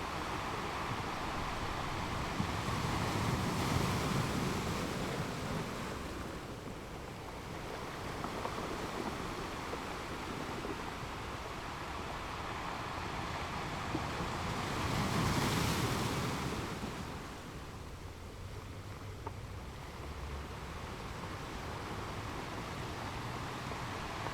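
Surf washing in, a steady rushing noise that swells twice, about three seconds in and again about fifteen seconds in, then eases back.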